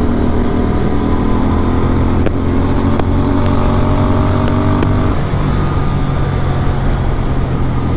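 Superbike engine running at a steady highway cruise; its note shifts lower about five seconds in.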